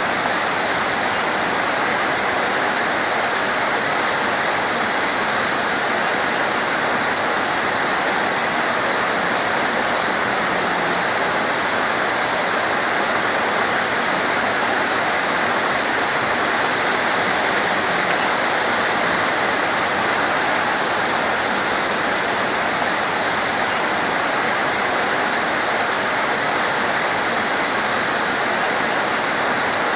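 Torrential rain falling in a steady, dense hiss, with two sharp clicks, one about seven seconds in and one near the end.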